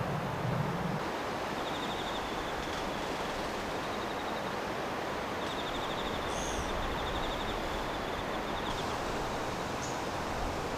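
Steady outdoor ambient hiss, with a faint high pulsing trill that comes and goes.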